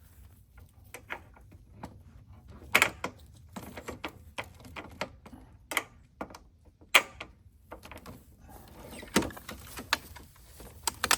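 Ladder being fitted onto a roof-top tent box: a series of sharp clacks and knocks, with scraping between them.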